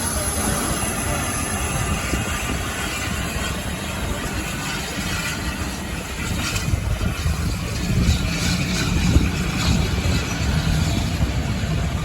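A train running on a heritage railway: a steady mix of wheel and engine noise that grows a little louder in the second half.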